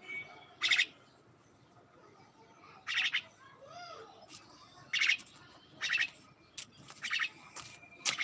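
Pet myna calling: about six short chirping calls, one to two seconds apart.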